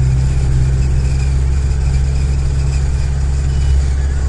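Car engine idling, a steady low drone heard from inside the vehicle's cabin.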